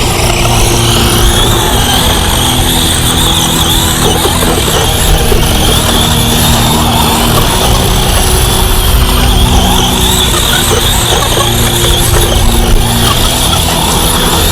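Brushless electric RC truck (X-Ray XB8 EC on a sensored 4S system) driving hard, its motor whine rising and falling with the throttle over constant drivetrain and tyre noise.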